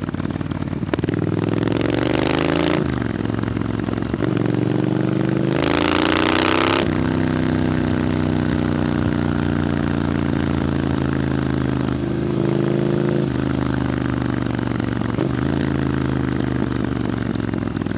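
Triumph Scrambler 900's parallel-twin engine through an Arrow exhaust, pulling through the gears: the pitch climbs and drops at each shift in the first few seconds, then the engine settles into steady running, with another brief climb about twelve seconds in. A loud rush of noise cuts in for about a second around six seconds in.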